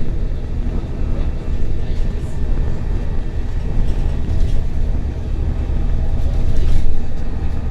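Scania L94UB compressed-natural-gas bus running under way, heard from inside the cabin: a steady low engine and road drone with a few short knocks, swelling louder near the end.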